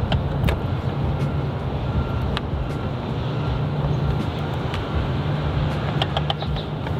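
Steady low hum of an idling car engine, with a few light clicks as a headlight's wiring connectors and housing are handled, a small cluster of them near the end.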